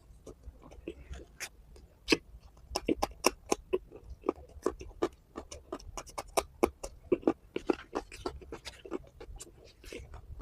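A person chewing and smacking their lips while eating, close to the microphone: a rapid, irregular run of short clicks and smacks, thickest through the middle.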